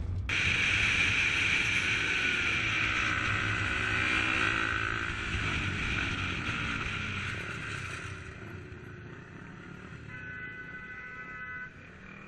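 Motorcycle engine running while riding, with rushing wind noise; the engine pitch rises and falls, and the sound fades over the second half. A faint steady tone lasts about a second and a half near the end.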